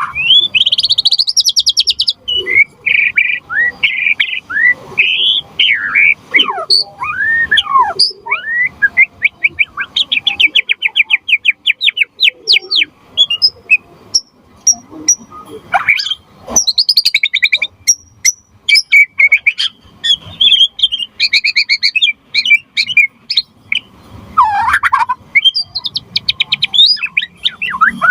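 White-rumped shama (murai batu) in full song: a long, varied run of clear whistles, rapid trills, sweeping up-and-down notes and a few sharp clicks, phrase after phrase with short pauses between.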